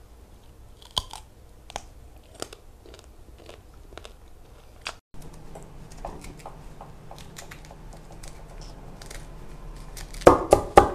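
Sharp, scattered crunches of chewing a raw green vegetable. After a break, faint knife scraping on a wooden cutting board, then loud rapid knocks near the end.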